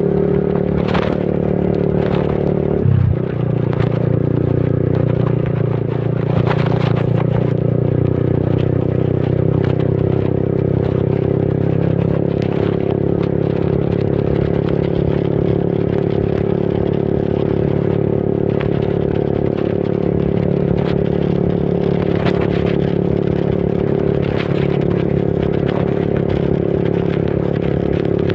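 Yamaha motorcycle engine running steadily under way, with a sudden shift in engine note about three seconds in.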